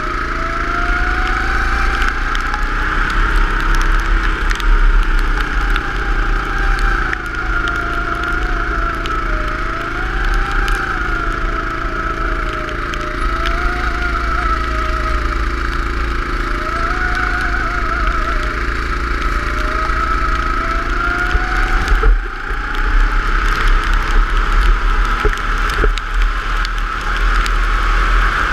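Go-kart engine running at speed, its pitch rising and falling over and over as the throttle opens and closes. The engine drops off briefly about three-quarters of the way through.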